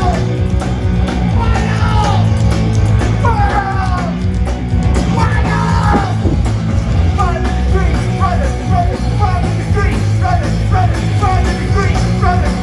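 Loud rock music with a punk edge: a band plays over a steady, heavy low end while a lead line of sliding, bending notes runs above it, turning into quicker short notes in the second half.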